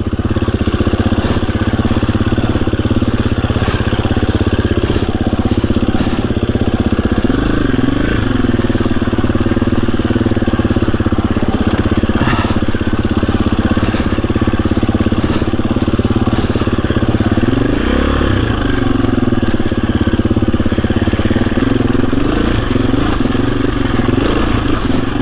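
KTM EXC-F 350's single-cylinder four-stroke engine running hard under load as the bike is ridden, loud and continuous, with the revs rising and falling about a third of the way in and again past the middle.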